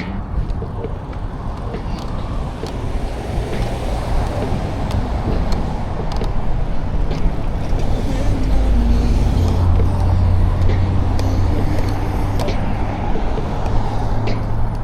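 Road traffic passing while riding a bicycle along a street. A deep rumble grows louder about halfway through as a vehicle goes by.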